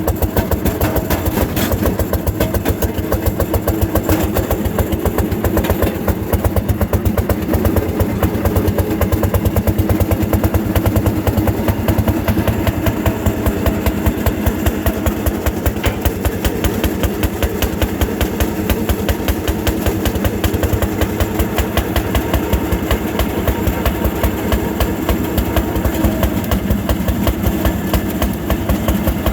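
Fairmont M-19 railroad motorcar's single-cylinder two-stroke engine running steadily under load, a rapid even exhaust beat as it works up a grade.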